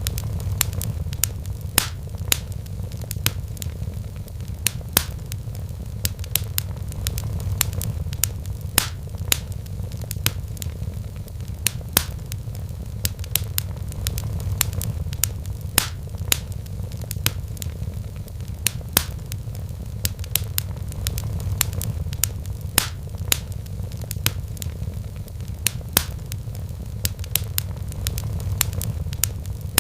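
Wood fire crackling in a fireplace: sharp, irregular pops and snaps, a few a second, over a steady low rumble.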